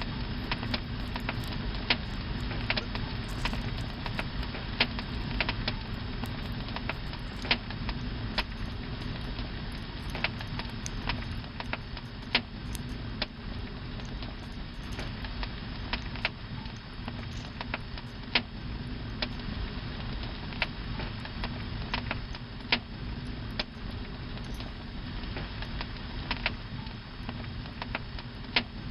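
Campfire burning, with irregular sharp crackles and pops of the wood over a steady low rush of the flames.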